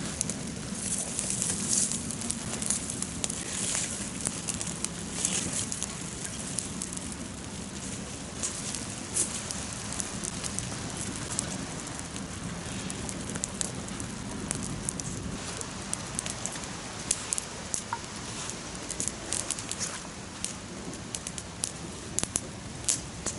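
Wood campfire crackling, with a steady hiss and many irregular sharp pops and snaps from the burning wood.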